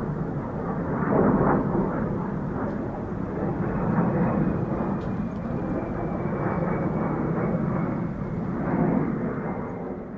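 Military aircraft flying past, its engines a steady rushing noise with a faint whine that slowly drops in pitch, fading near the end.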